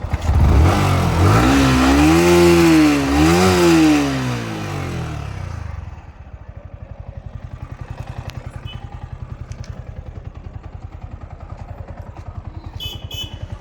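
Yamaha R15 V4's 155 cc single-cylinder engine revved twice in quick succession, the pitch rising and falling each time, then dropping back to a steady idle a few seconds in, just after its timing chain tensioner has been replaced.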